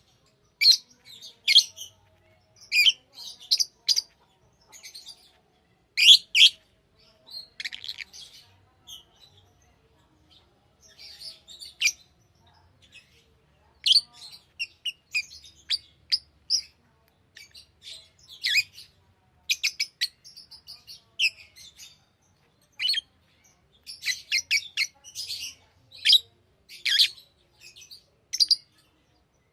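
Pet lovebirds chirping: short, shrill calls in irregular clusters, with a brief lull about ten seconds in.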